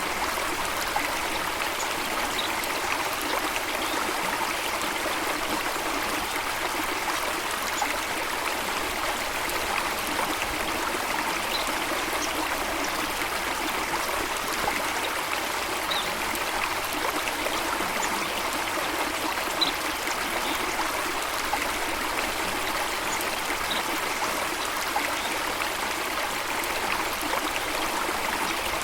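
Running stream water making a steady rushing sound, with faint short high ticks here and there.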